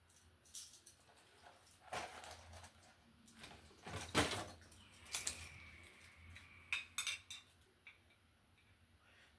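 Scattered clicks, knocks and rattles of hand tools and small electrical hardware being handled, the loudest knock about four seconds in, with a faint thin squeal from about five to nearly seven seconds in.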